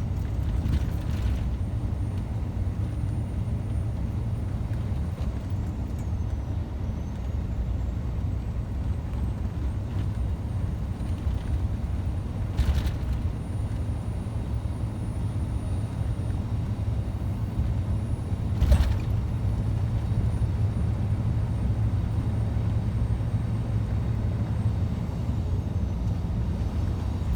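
Scania truck's diesel engine running steadily on the road, a low drone, with two brief sharp sounds about 13 and 19 seconds in, the second louder.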